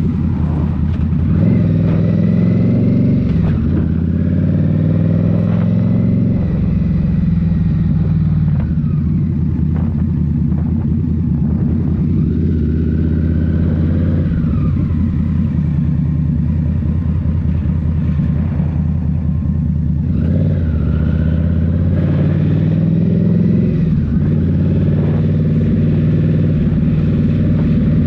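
Indian Scout Rogue's 69 cu-in V-twin engine running through Rinehart slip-on exhausts while riding. The engine note rises under throttle in the first few seconds, drops suddenly just before four seconds in, then climbs again after about twenty seconds.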